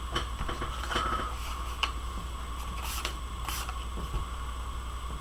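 Scissors snipping paper, a few short sharp cuts with light paper handling, two of them close together about three seconds in, over a steady low electrical hum and a faint steady whine.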